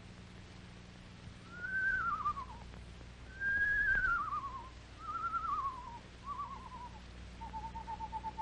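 Screech owl calling: four quavering whistles, each falling in pitch, then a long, even, level trill beginning near the end.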